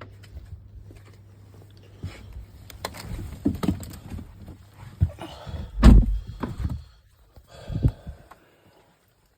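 A run of knocks and thumps, the loudest about six seconds in, over a faint steady low hum, before the sound stops near the end.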